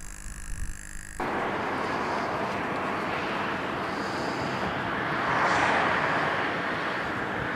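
Steady rushing air noise of a radio-controlled model airplane in flight. It starts abruptly about a second in and swells briefly around the middle.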